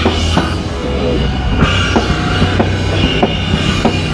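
Live band playing rock music, a drum kit beating steadily over a continuous bass line.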